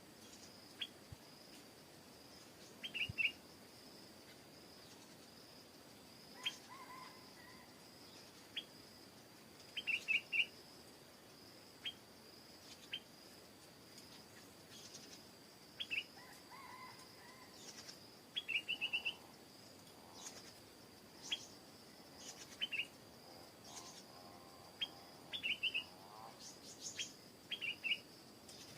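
Birds giving short, separate chirps and brief call notes every second or two, some as quick clusters of two or three notes, over a steady faint high-pitched tone.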